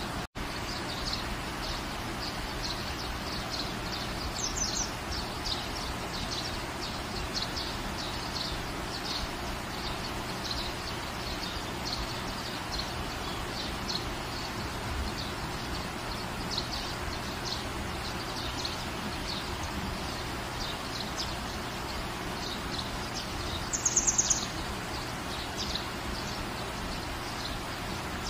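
Steady rain falling, with a bird chirping over it in short notes about every half second. About 24 s in, a louder quick run of high chirps stands out.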